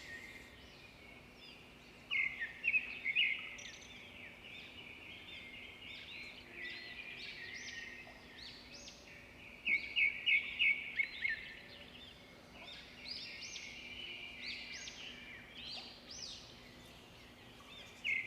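Several birds calling and singing at once, a steady chorus of chirps and trills, with louder bursts of quick repeated chirps about two seconds in and again about ten seconds in. A faint steady low hum lies underneath.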